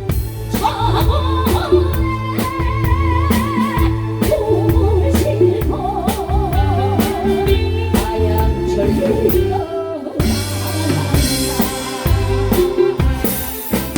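A live band playing a song: drum kit with snare and rimshots over a steady bass line, and a melody with wide vibrato on top. After a brief drop about ten seconds in, cymbals wash in.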